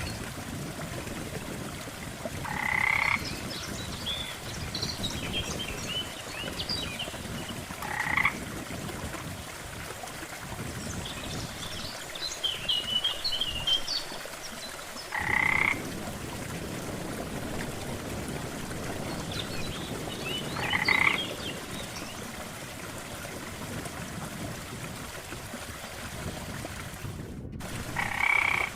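Frogs croaking at a pond: a short, louder call repeats about every five to seven seconds, with fainter, higher chattering calls in between, over a steady background wash.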